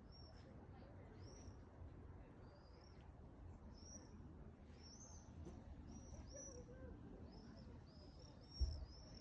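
Small songbird chirping faintly over and over, short high arched notes coming closer together towards the end, over a low outdoor rumble, with one dull thump near the end.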